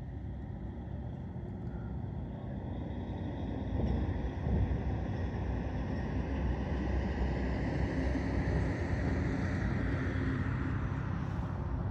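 A truck passing on the road, its engine and tyre noise building over the first few seconds and staying loud through the rest.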